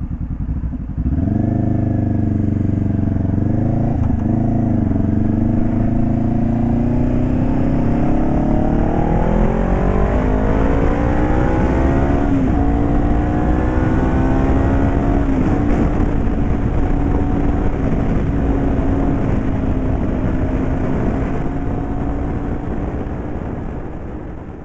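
2018 Honda CBR500R parallel-twin engine, warm, running through an exhaust with its baffle removed. Its pitch climbs slowly over about ten seconds, dips briefly, climbs again, then holds steady and fades near the end.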